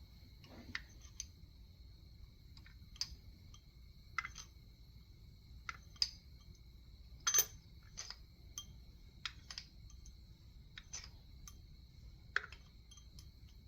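Scattered light clicks and clinks, irregularly spaced, from tools and engine parts being handled during an engine teardown. A faint steady high tone sits underneath.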